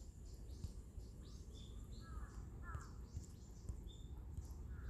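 Faint birdsong: scattered short chirps and a few quick curved whistled notes, over a steady low rumble.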